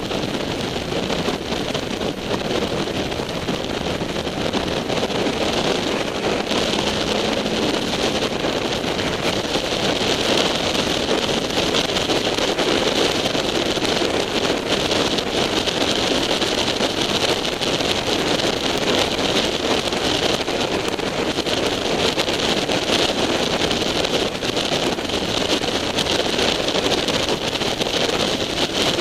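Steady wind noise buffeting a motorcycle-mounted camera's microphone at road speed, with the sportbike's engine and road noise underneath.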